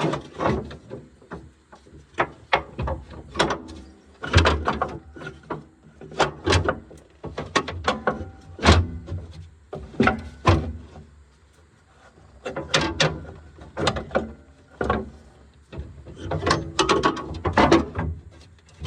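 Irregular clanks, knocks and rattles of hand tools and metal parts, as in disassembly work on a machine, with a quieter lull about two-thirds through.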